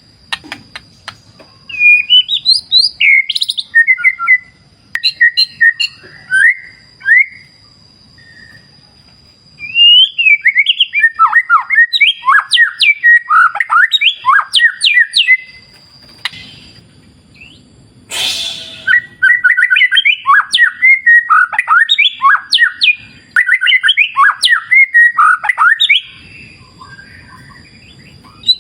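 White-rumped shama (murai batu) singing: bursts of rapid, varied whistled notes that glide up and down, broken by short pauses. Faint river water runs underneath in the pauses, and a short noisy burst comes about two-thirds of the way through.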